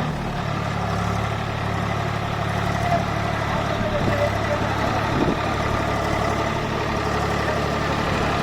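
Swaraj 744 tractor's diesel engine running steadily.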